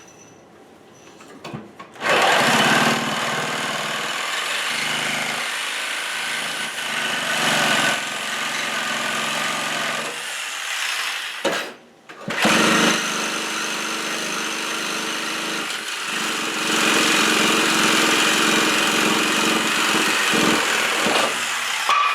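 Reciprocating saw (Sawzall) cutting through sheet-metal heat duct, starting about two seconds in and running in two long spells with a brief stop a little past halfway.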